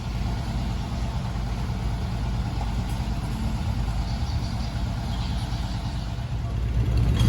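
Fishing boat's diesel engine running steadily with a low, even drone.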